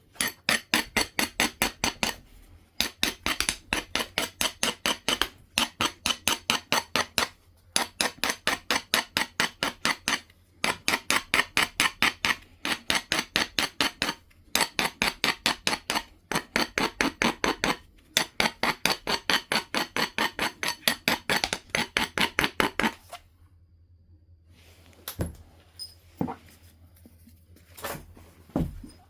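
Flint being worked by hand with rapid stone-on-stone strokes, about six sharp clicks a second, in runs of a couple of seconds with short pauses. Near the end the runs stop and a few separate light knocks follow.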